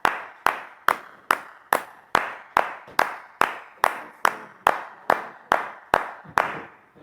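One person clapping hands in a steady, even rhythm, about two and a half claps a second. Each clap rings out briefly in a reverberant room, and the clapping stops near the end.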